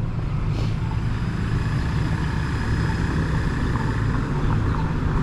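Wind buffeting a GoPro microphone during a ride on an Apollo Go electric scooter: a steady, heavy low rumble with a faint, steady high whine above it.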